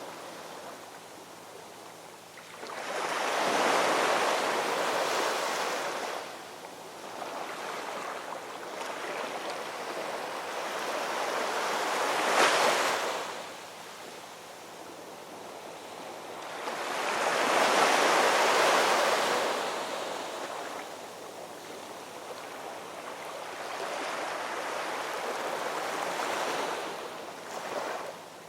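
Ocean waves breaking and washing ashore in slow swells several seconds apart, rising and falling in loudness, with one sharper crash about halfway through.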